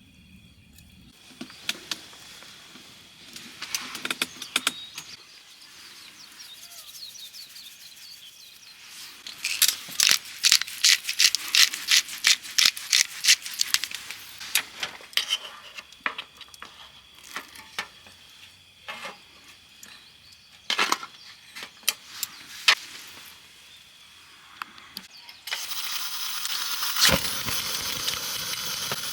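Kitchen handling sounds: scattered sharp knocks and clicks, with a quick run of them at about four a second for a few seconds midway. Near the end a steady sizzle starts suddenly as food goes onto a hot cooking surface.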